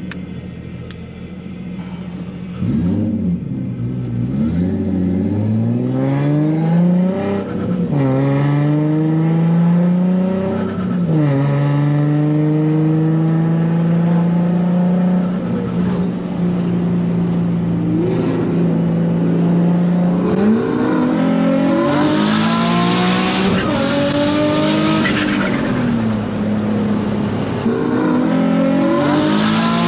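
Car engine accelerating hard on the street, its pitch climbing and dropping back at two gear changes, then holding steady before revving up again. A loud hissing rush rides over the engine in the second half.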